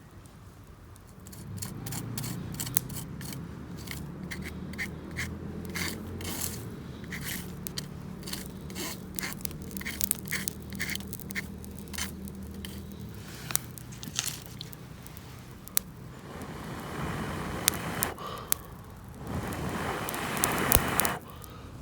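Camping gear being handled and packed: a run of short clinks and knocks, then two longer bouts of scraping and rustling near the end, over a low steady hum.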